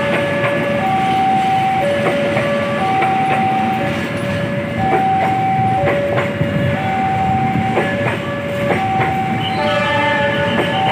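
Level-crossing warning alarm sounding, two notes alternating, each held just under a second, over the rumbling noise and wheel clacks of a passing train. A further higher tone joins near the end.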